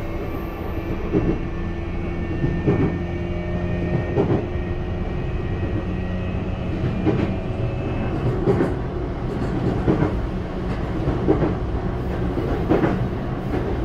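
Interior running sound of a JR East E235-1000 series electric train car, a motor car with Mitsubishi full-SiC VVVF control, running along the line with a steady hum. Its wheels clack over rail joints about every second and a half.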